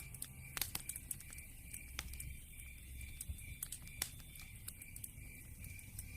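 Wood fire in a fireplace crackling, with irregular sharp pops, the loudest about half a second in and again about four seconds in.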